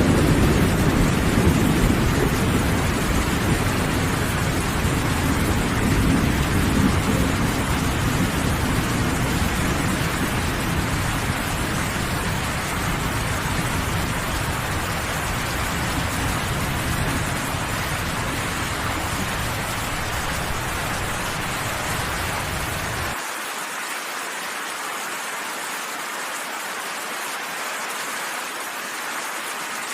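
Steady rain falling, with a low thunder rumble that is loudest at the start and slowly fades. About 23 seconds in the low rumble cuts off suddenly, leaving only the rain's hiss.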